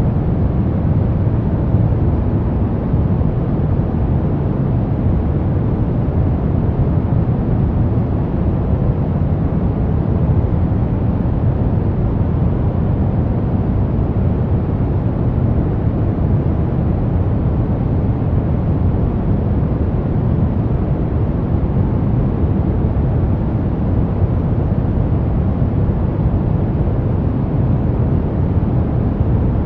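Brown noise: a steady, unchanging hiss with most of its energy in the low end, deep and rumbling rather than bright.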